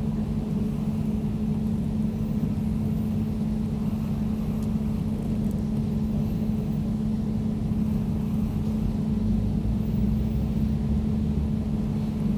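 Air conditioner running steadily: a constant low hum under an even rush of air noise, with no change in level.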